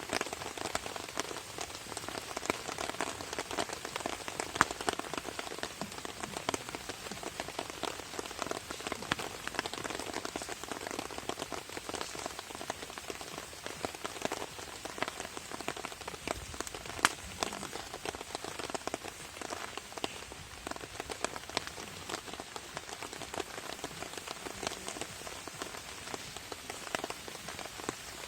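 Rain falling on a camping tarp overhead: a steady, dense patter of drops, with now and then a louder single drop.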